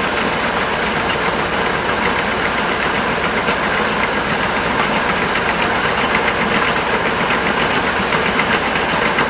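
Combine harvester running steadily while its grain hopper is being unloaded.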